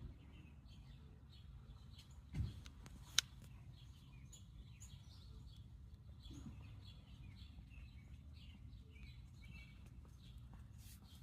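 Faint bird chirps, many short calls scattered throughout, over a steady low background rumble, with a brief low thump about two seconds in and a single sharp click a moment later.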